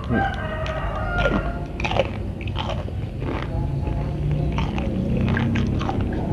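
Close-up chewing and biting of crispy fried chicken skin, with sharp crunches at irregular intervals.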